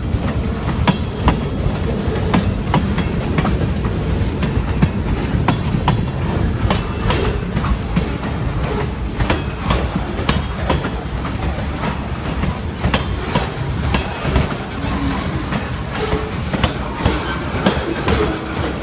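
Freight train cars rolling slowly past on jointed track: a steady rumble with irregular clicks and clanks as the wheels cross the rail joints.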